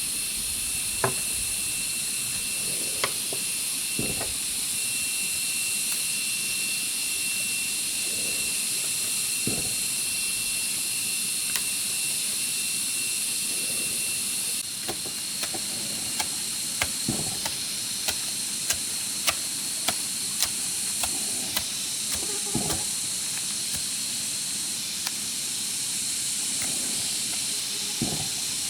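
Steady high-pitched insect chorus with a second, lower steady whine that drops out about halfway. Sharp knocks and clicks come irregularly throughout, in a quicker run in the middle.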